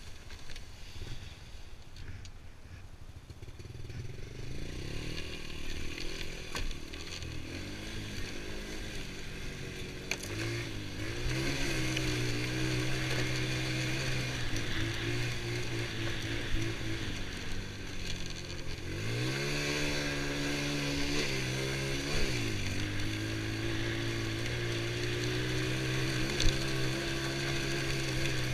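Honda TRX90 ATV's small single-cylinder four-stroke engine under way, running low at first, then revving up about a third of the way in and holding a steady pitch. Twice, past the middle, the pitch drops and climbs back as the throttle is eased off and opened again.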